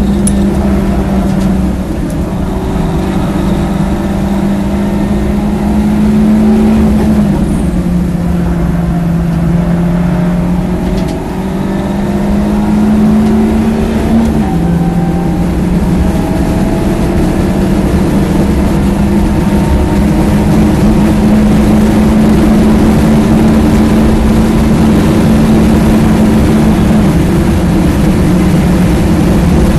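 BMW 318 four-cylinder engine pulling hard at high revs, heard from inside the car's cabin with road and wind noise. It eases off briefly about eleven seconds in, drops in pitch at an upshift a few seconds later, then climbs steadily as the car gathers speed.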